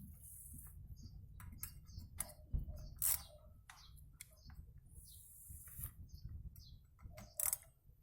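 Ratchet wrench with a T25 Torx bit working the bolts of a bicycle disc brake rotor: irregular small clicks and ticks, with a few sharper clicks, as the loose rotor bolts are tightened.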